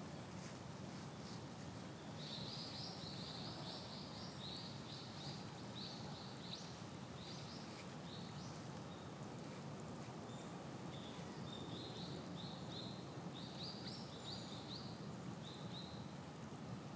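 A small bird calling in two long runs of short, high chirps, about three a second. One run starts about two seconds in and the other about eleven seconds in, over steady low background noise.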